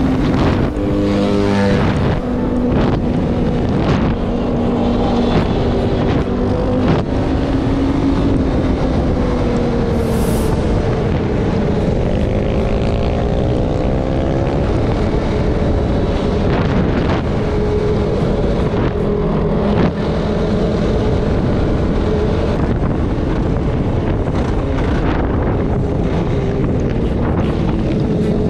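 Off-road vehicle engine running while riding, its pitch rising and falling with the throttle, with wind noise on the microphone.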